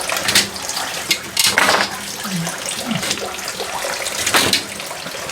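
Water running and splashing steadily, with a few louder splashes.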